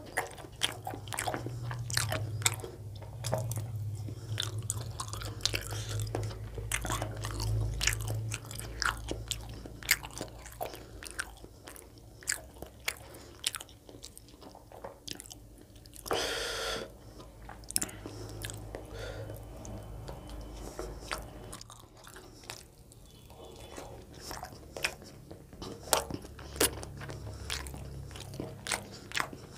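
Close-miked chewing and biting of chicken gizzard curry and soft roti, with many wet mouth clicks and smacks throughout. There is a brief louder rush of noise about halfway through.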